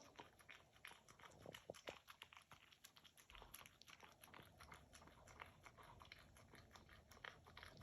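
A Shih Tzu puppy licking and smacking at dog peanut butter: faint, rapid, irregular wet clicks.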